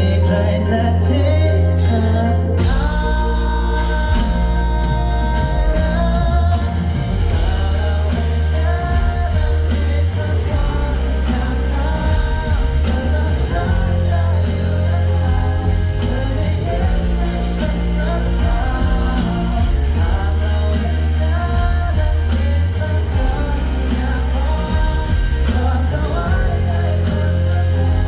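A Thai pop-rock band playing a song live, with a lead vocal singing over a heavy, sustained bass line.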